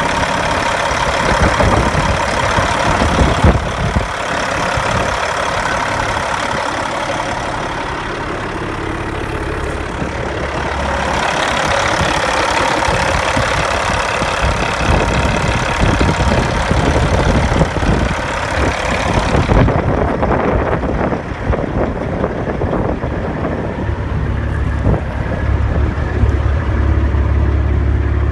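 Caterpillar C-15 inline-six diesel engine of a 2004 Peterbilt truck running. The high hiss fades about two-thirds of the way through, and a deep low rumble grows stronger near the end.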